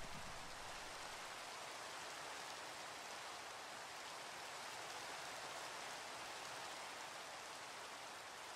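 Soft, steady rain: an even hiss of falling rain, with no speech.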